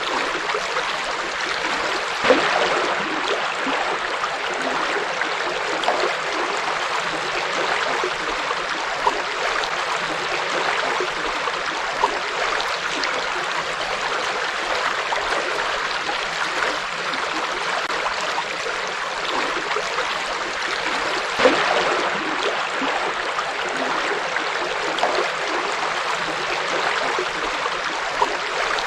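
A forest river flowing over rocks: a steady rush of water with small splashes and gurgles, two slightly louder splashes about 2 seconds in and about 21 seconds in.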